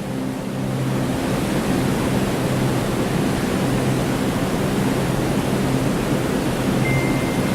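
Steady rush of a waterfall's falling water, getting louder about a second in. A brief high tone sounds near the end.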